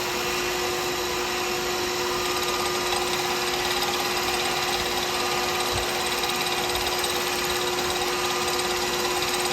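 Wood lathe running steadily, a constant motor hum with a steady whine, spinning a pen blank during polishing.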